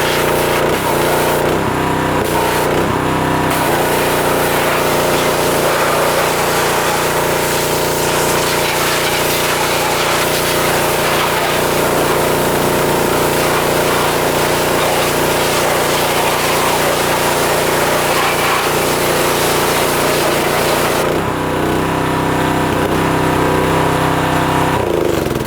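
Pressure washer running with the steady drone of its small engine under the hiss of the water spray. The spray stops about 21 seconds in while the engine runs on, and then everything shuts off at the end.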